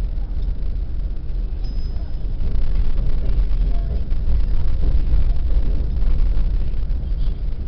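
Passenger train running across a steel truss bridge, heard from inside the carriage: a steady deep rumble that grows louder about two and a half seconds in.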